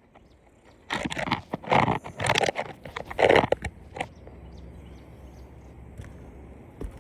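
Scraping and crunching against asphalt roof shingles as they are worked loose, in a string of short rough bursts over the first half, then only a faint steady background.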